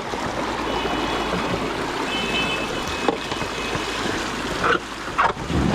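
Steady rushing noise of an electric trials motorcycle being ridden off-road, with wind and tyre noise over the trail and a faint high whine through the middle. There are sharp knocks about three seconds in and twice near the end.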